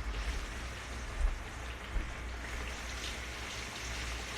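Dredged whole trout frying in hot oil: a steady crackling sizzle, with two small knocks about one and two seconds in.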